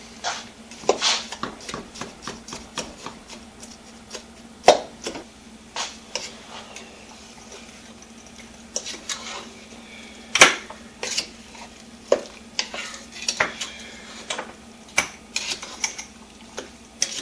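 Dishes and metal utensils clattering in irregular clinks and knocks as they are loaded into a dishwasher, with two louder knocks about four and a half and ten and a half seconds in. A faint steady hum runs underneath.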